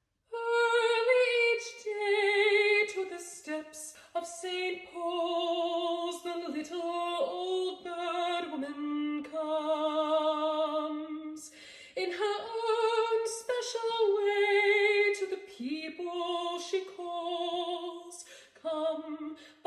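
A woman singing solo and unaccompanied, holding long notes with vibrato in phrases broken by short breaths.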